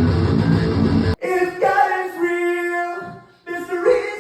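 A band playing heavy rock with distorted guitar, cut off abruptly about a second in, then a voice singing long held notes with a brief break in the middle.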